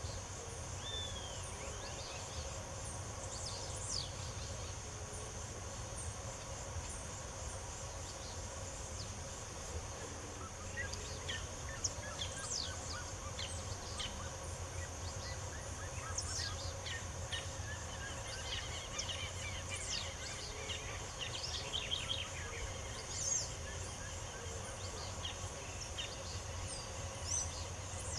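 Several songbirds chirping and whistling in short, quick notes over a steady high-pitched insect drone. The bird calling grows busier from about ten seconds in.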